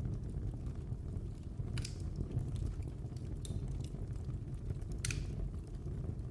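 Wood fire burning in a fireplace: a steady low rumble of flames with a few sharp crackles and pops, the loudest about five seconds in.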